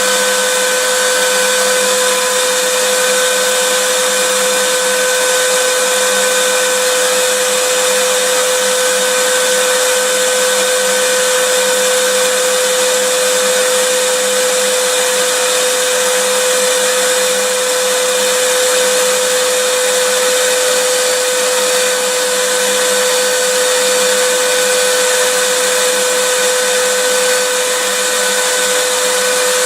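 Vacuum cleaner running steadily: a constant rushing noise with a fixed tone through it, with no change in pitch or level.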